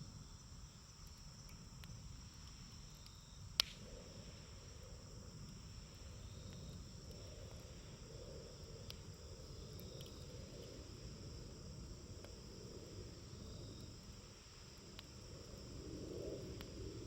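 Campfire burning with a low rumble and a few sharp pops, the loudest about three and a half seconds in, over a steady high chirring of crickets.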